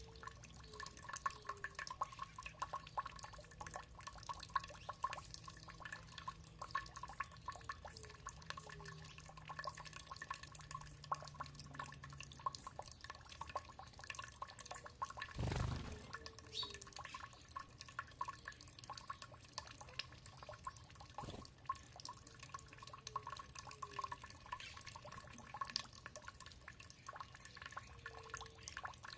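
Water dripping and trickling steadily, many small drops a second, with one louder thump about halfway through.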